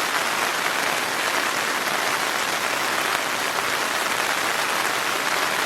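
Heavy rain pouring down, a dense, steady hiss of drops.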